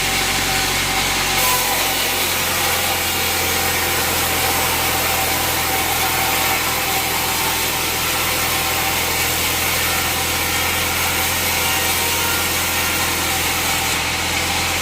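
Band sawmill running and cutting through a jackfruit log: a steady sawing hiss over the constant hum of the mill's motor. The hiss grows brighter about a second and a half in and eases slightly near the end.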